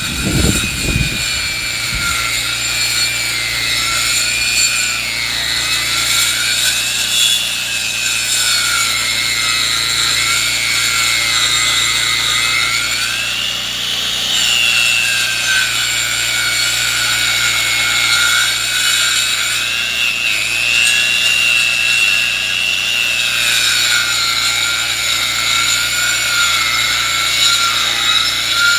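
Powered sawmill cutting lumber from a log: a steady low engine hum under a high saw whine that rises and falls slightly as the cut goes on.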